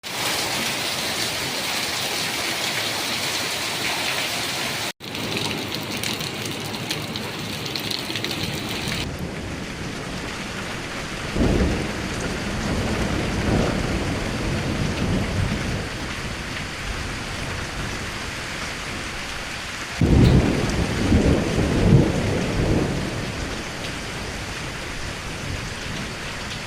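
Steady rain falling, with two long low rolls of thunder, one around the middle and a louder one about three-quarters through. The rain sound shifts abruptly twice in the first nine seconds.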